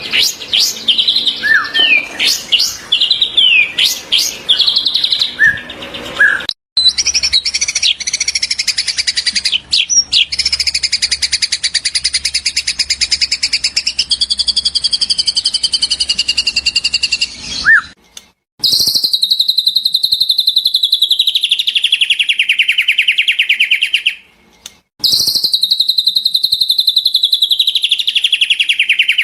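Edited recording of songbird song, of the kind used to tutor white-rumped shamas. It starts with varied sharp whistles and quick rising and falling notes, then switches abruptly to a long, fast, buzzy trill. It ends with a rapid trill that falls in pitch, played twice with a short break between.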